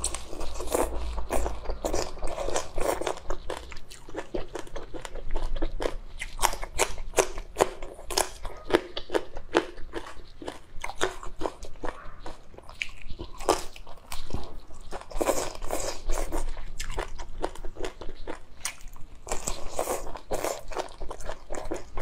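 Close-up biting and chewing of raw green garlic stalks in chili sauce: many sharp, crisp crunches in quick succession.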